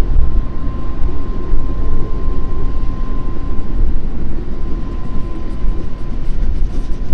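Strong wind buffeting the microphone, a deep, steady rumbling noise, with a thin steady high tone running through it.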